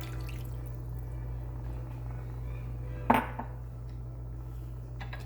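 Chicken broth pouring into a braising pan, stopping within the first half-second. A single sharp clank of cookware comes about three seconds in, over a steady low hum.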